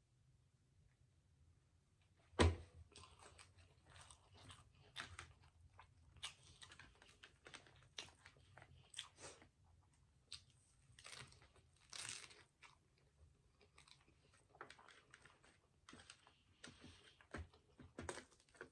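A person eating a chili cheese hot dog close to the microphone, chewing with irregular small clicks and mouth noises. A sharp knock about two seconds in is the loudest sound.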